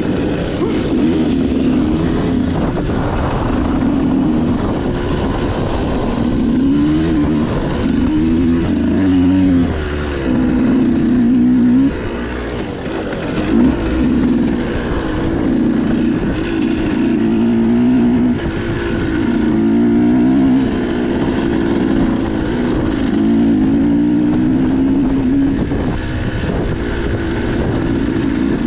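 Motocross bike engine running under load, revving up and easing off again and again, with its pitch rising and falling every second or two.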